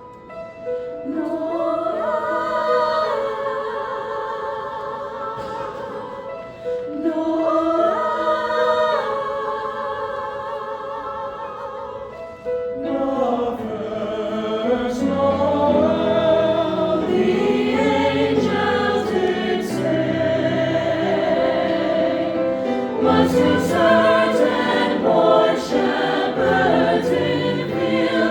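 Choir singing: two long held chords, then a fuller, moving passage with lower parts joining in about halfway through.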